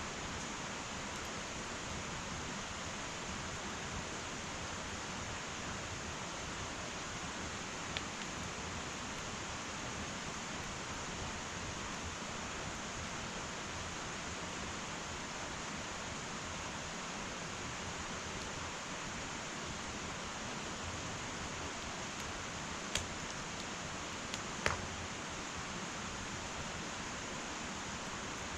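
Wood fire burning in an irori hearth: a steady hiss with a few sharp crackles, one about eight seconds in and two close together near the end.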